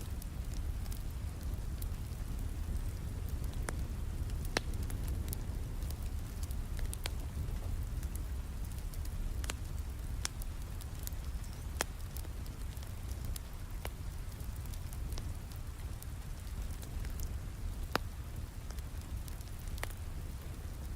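Steady rain with a wood fire crackling over it: irregular sharp pops and snaps, a few of them louder than the rest.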